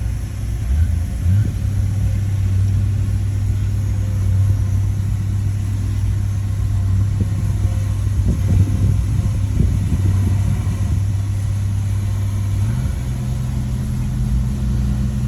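Heavy diesel engine of an earthmoving machine running steadily under load with a deep drone; its pitch steps up about a second in and again near the end.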